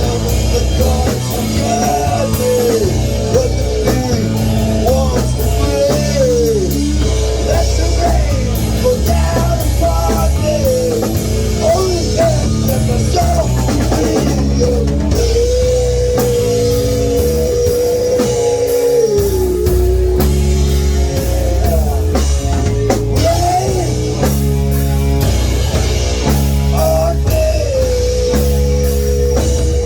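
A rock band playing a heavy song: drum kit, guitar and bass, with a melody line that bends and holds long notes.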